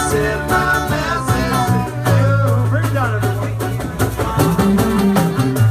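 Live band music: electric guitar playing a lead line with bends over bass and drums, in a loose reggae-tinged groove.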